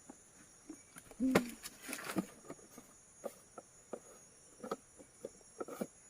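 Forest insects droning steadily in two high, unbroken bands, with scattered close clicks and knocks over them; the loudest knock comes a little over a second in.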